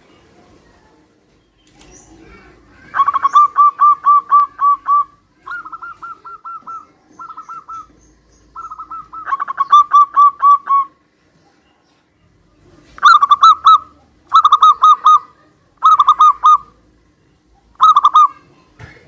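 Zebra doves (perkutut) cooing: a string of short phrases, each a rapid run of staccato, bubbling notes. Some phrases sit slightly higher than others, and there are brief pauses between them.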